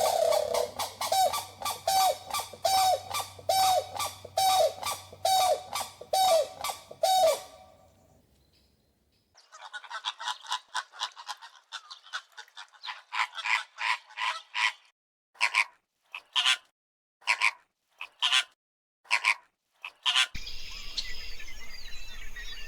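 Repeated bird calls in several runs. First comes a series of short calls about two a second for some seven seconds. After a brief gap there is a fast, dense run of higher calls, then single calls about once a second. Near the end it gives way to outdoor background noise with faint birdsong.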